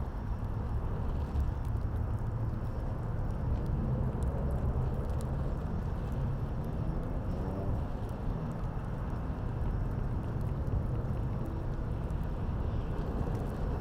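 Steady low rumble of city traffic heard from a rooftop, with faint scattered crackles from the outdoor fire.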